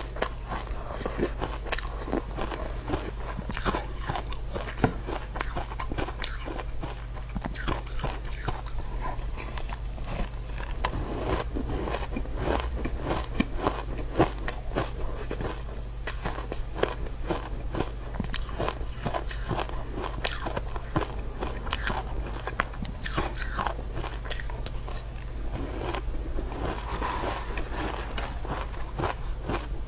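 A person biting and crunching ice in their mouth, with rapid, irregular crisp crunches one after another.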